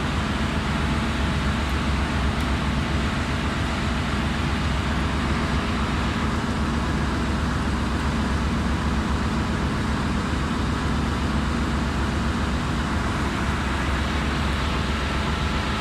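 Steady engine-room machinery noise: a loud, continuous drone with a deep hum underneath, unchanging throughout.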